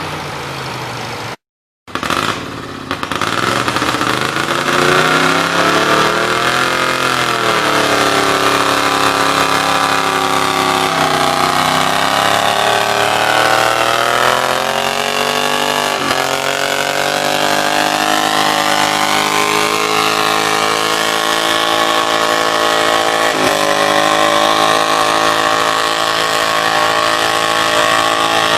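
Pulling tractor's engine running hard under load as it pulls the sled down the track, its pitch rising and dipping several times before holding steady through the second half. The sound cuts out completely for a moment about a second and a half in.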